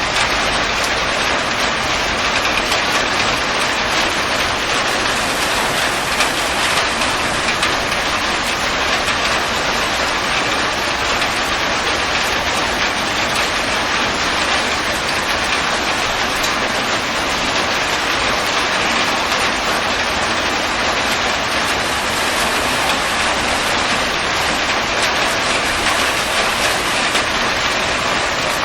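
Heavy rain falling steadily, an even, dense hiss that does not let up.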